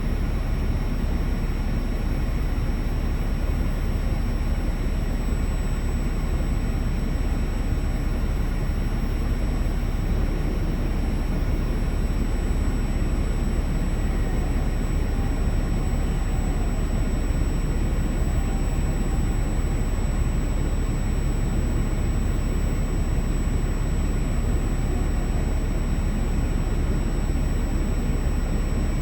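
Semi-truck's diesel engine idling, a steady low rumble that does not change.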